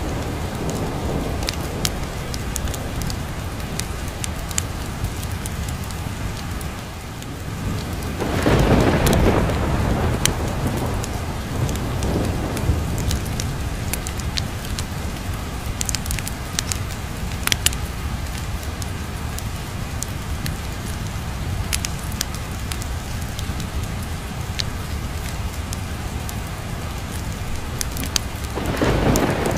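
Steady rain with thunder rumbling: a loud peal swells about eight seconds in and another begins near the end. Sharp pops and crackles from a log fire are scattered throughout.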